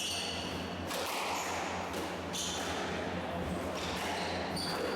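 Squash rally: the ball cracking off rackets and the court walls every second or two, with sneakers squeaking on the court floor between the shots.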